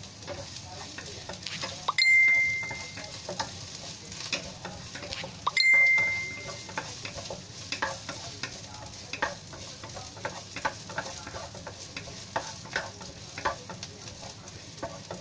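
Aromatics sizzling in hot oil in a non-stick wok while a wooden spatula stirs and taps against the pan in short clicks. Twice, about two and five and a half seconds in, a louder moment comes with a brief high ring.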